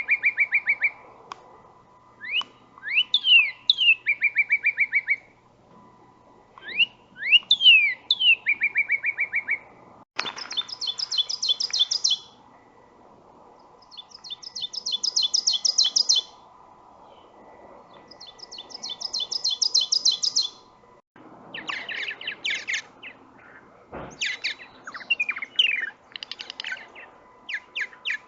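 Songbirds singing in three different songs, one after another. First a phrase of rising whistled slurs followed by a quick run of lower notes, repeated three times about every three and a half seconds. About ten seconds in comes a fast, dry, high trill in three bouts, and near the end a varied jumble of notes.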